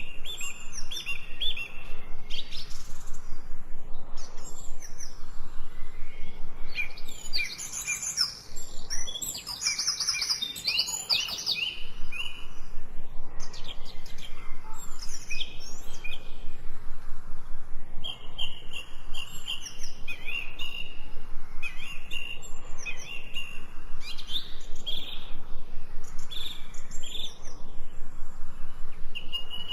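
Several songbirds chirping and singing together: a dense run of short high chirps and quick trills, overlapping.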